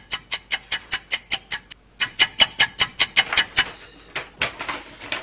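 Fast, even clock-like ticking, about seven ticks a second, in two runs with a short break about two seconds in, the kind of ticking effect laid in to show time passing. Near the end the ticking gives way to softer rustling and handling of a paper ballot sheet.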